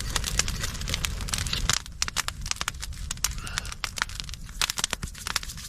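Campfire coals crackling and popping with many sharp, irregular pops, over a low rumble that stops about two seconds in.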